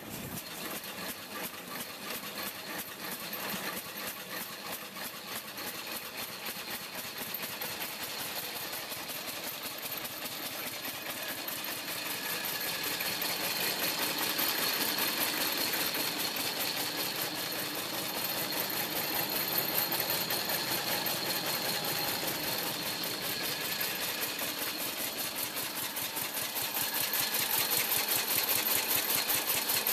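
1904 Cadillac's single-cylinder engine running at a steady idle, a rapid, even beat of firing strokes, growing louder near the end.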